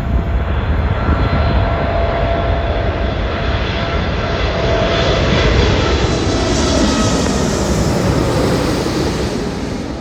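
Jet airliner engines running loudly as a dense roar with a steady whine. The sound brightens in the second half and starts to fade near the end.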